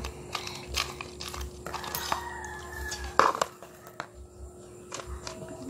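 Scattered small clicks and taps of handling objects, and about two seconds in a drawn-out, slightly falling call lasting about a second, from a fowl-like animal in the background.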